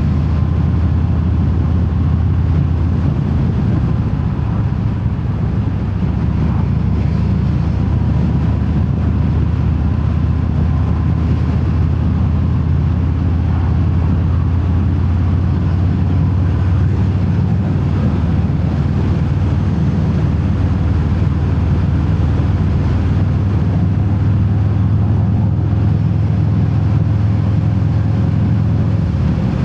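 2019 Harley-Davidson Fat Bob's V-twin running on the road through Vance & Hines Hi-Output slip-on mufflers without their quiet inserts, heard from inside the rider's helmet with wind noise. The low exhaust rumble holds steady, with its note shifting a few times.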